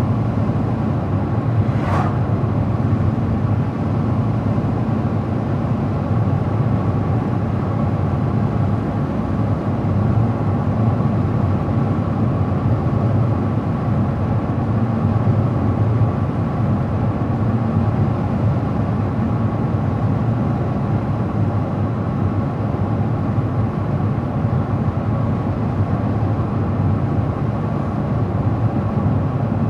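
Car driving at steady speed: continuous, even engine and tyre road noise with a faint steady whine. A brief falling whistle comes about two seconds in.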